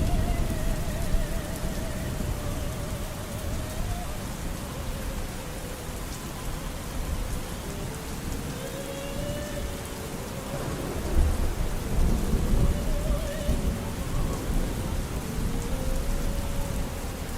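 Steady rain with low rumbles of thunder, loudest about eleven seconds in, over faint opera singing with a wide vibrato.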